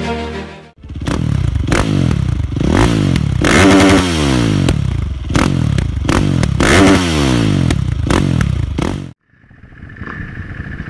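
Dirt bike engine revved up and down over and over, with mechanical clatter. It cuts off suddenly about nine seconds in.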